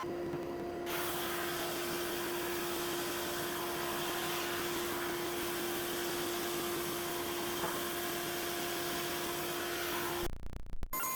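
Electric power tool running steadily, a continuous hiss over a steady motor hum, which cuts off abruptly near the end.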